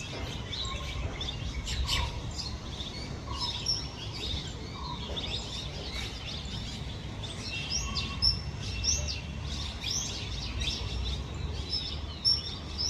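Birds chirping and calling, many short high chirps and brief whistles scattered throughout, over a low steady background rumble.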